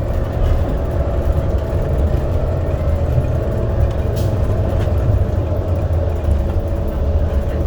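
Subway train running: a steady low rumble with a steady whine held on one pitch.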